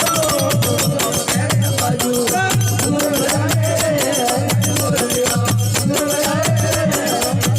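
Rajasthani desi bhajan (devotional folk music) playing: fast jingling hand percussion over a pulsing low drum beat, with a wavering melody line.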